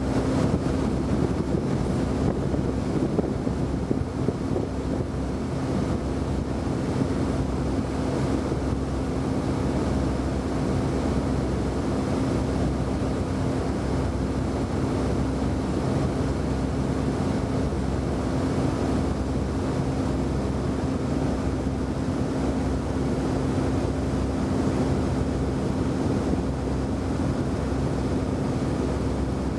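Steady aircraft cabin drone from engine and airflow noise, with a constant low hum running through it.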